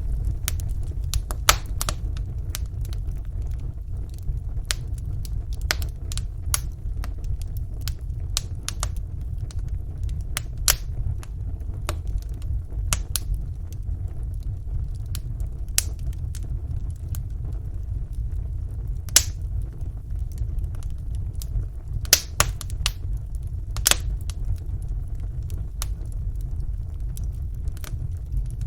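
Wood fire burning in a fireplace: a steady low rumble with frequent small crackles and pops. There are several louder pops, one near the start and a few in the last third.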